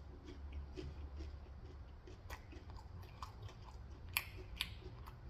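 A person chewing food close to the microphone: soft, irregular mouth clicks and smacks, with two sharper clicks a little after four seconds in.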